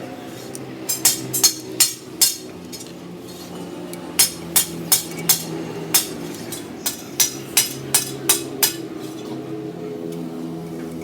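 Sharp metal taps and clinks, typical of tools striking engine parts, in irregular runs of two or three a second. A steady low hum runs underneath.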